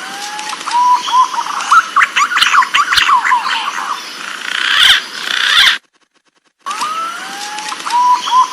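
Green pigeon (punai) song: whistled notes that open with rising slurs, then a fast run of warbling notes. It breaks off just before six seconds in and starts over the same way about a second later, like a looped call recording.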